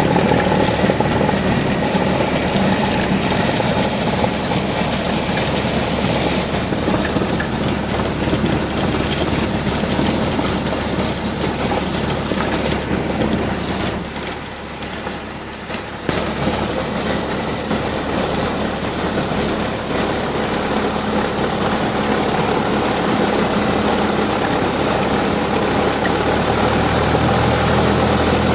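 Cessna 172's piston engine running at low power, heard from inside the cabin. The noise dips briefly about halfway through, and a low engine tone grows stronger near the end.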